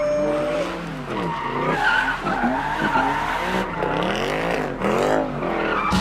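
Car engines revving hard, their pitch rising and falling over and over, with tyres squealing and skidding as the cars do burnouts.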